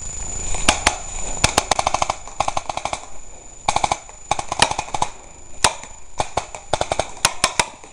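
Airsoft guns firing: sharp snapping shots, some single and some in quick bursts of about ten shots a second.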